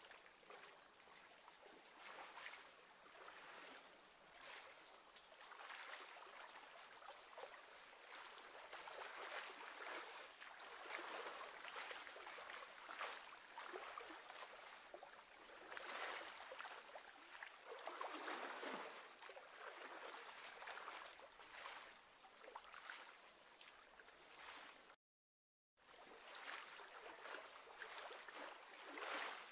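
Faint, uneven wash of choppy lake water lapping, swelling and ebbing every second or two. The sound cuts out completely for under a second near the end.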